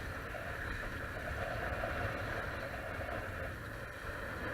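Steady rush of water along the hulls of a Hobie Cat catamaran under sail, with a constant low wind rumble on the microphone.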